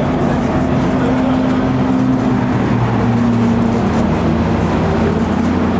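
Car engine running steadily at low revs, a deep, even drone with small shifts in pitch.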